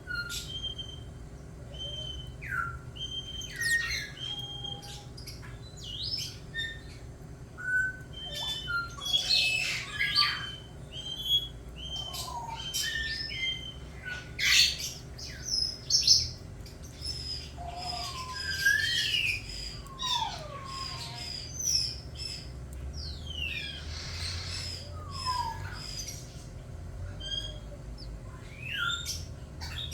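Birds chirping and calling: many short whistled notes and quick falling chirps, several kinds overlapping, with sharp clicks mixed in.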